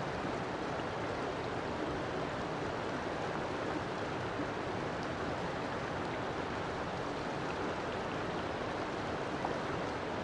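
River water flowing steadily: an even rushing with no breaks.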